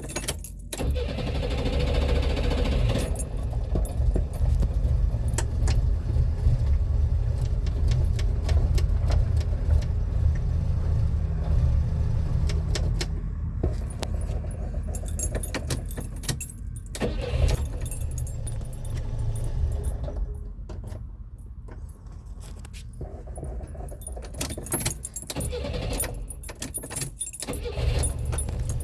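Renault 4 engine, flooded with fuel, turning over and running rough, an uneven low rumble with a constant rattling clatter. It eases somewhat past the middle, then picks up again near the end.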